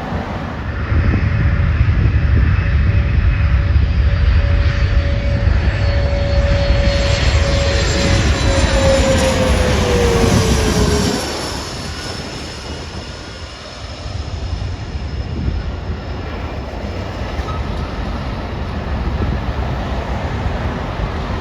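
Airliner passing low overhead: a steady engine whine over a heavy rumble, the whine dropping in pitch as the plane goes by about ten seconds in. The loud rumble then falls away fairly suddenly, leaving a fainter steady roar.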